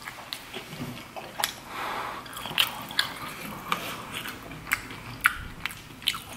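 Close-miked chewing of a Cajun-butter fried shrimp: wet mouth smacks and sharp clicks at irregular intervals.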